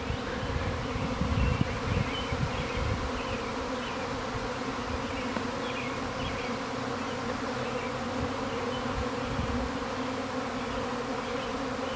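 Steady hum of a honeybee swarm in the air, thousands of bees flying as the colony leaves its hive.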